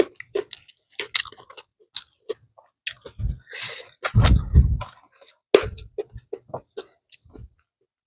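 Close-miked chewing and crunching of food: a quick string of wet mouth clicks and crunches, with a denser, louder stretch of low thumps and a brief rustle around the middle.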